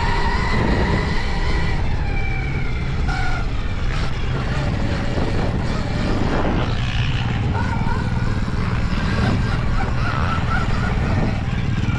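Stark Varg electric dirt bike ridden on a motocross track: a thin electric-motor whine that rises and falls with the throttle, over heavy wind rush and rumble on the microphone.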